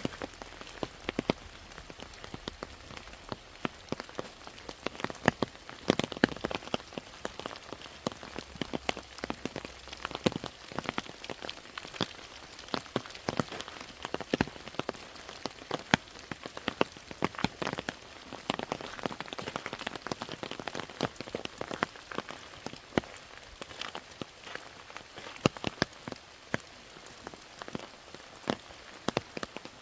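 Rain falling steadily: an even hiss with many loud, irregular drops striking close by.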